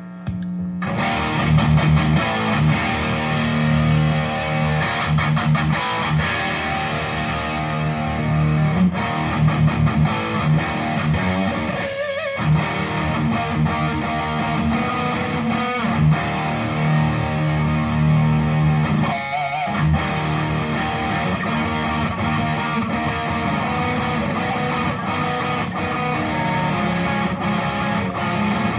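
Electric guitar with P90 pickups played through a Tech21 SansAmp GT2 amp-simulator/distortion pedal into a Laney amp, heard through a phone's microphone. It plays continuous overdriven riffs and chords, with a brief pause near the start and short breaks about 12 and 19 seconds in.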